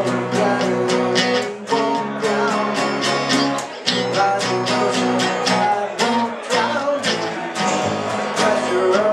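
Acoustic band playing an instrumental passage: a strummed acoustic guitar keeps a steady rhythm while a dobro plays sliding lead lines over it.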